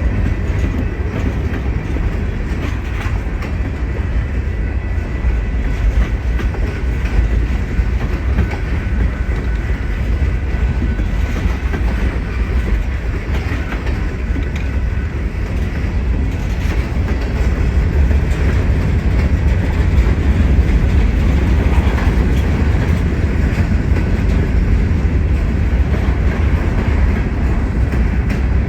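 A train passing close by, its wheels clacking over the rail joints over a steady heavy rumble, growing a little louder in the second half.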